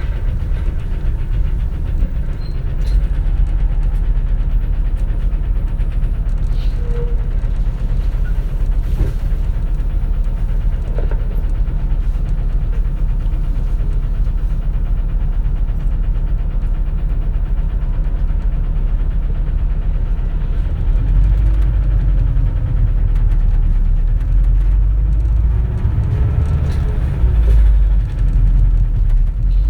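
Running sound heard inside a 2004 compressed-natural-gas city bus: a steady low engine and road rumble. In the last third the engine note rises and falls a few times as the bus pulls away and speeds up.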